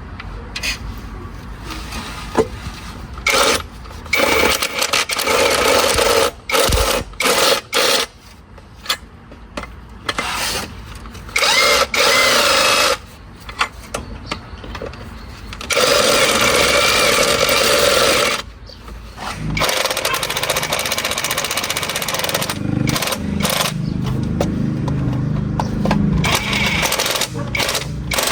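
A power tool run in repeated short bursts, on and off every second or two, with one longer run of about two and a half seconds in the middle and a lower, rougher sound near the end.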